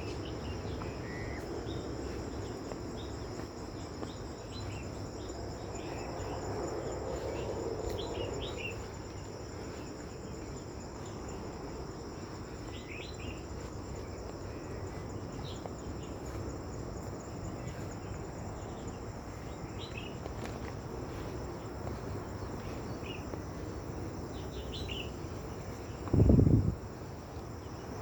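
Steady high buzzing of an insect chorus, likely crickets, with scattered short bird chirps. A brief loud low thump comes near the end.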